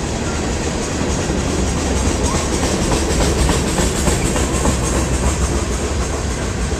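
Freight train's cars rolling past close by: a steady rumble of steel wheels on rail, with rapid clicking of the wheels over the track in the middle.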